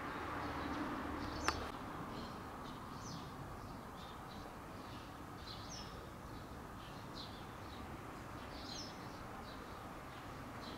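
Small birds chirping in short repeated calls over steady outdoor background noise, with a single sharp click about one and a half seconds in.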